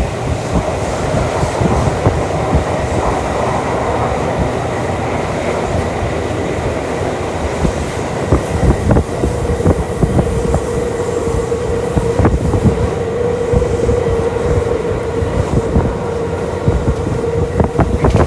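Running sound of a Tokyu Toyoko Line train heard inside the carriage: a steady rumble of wheels on rail with scattered clicks over rail joints. A steady hum joins about halfway through and holds.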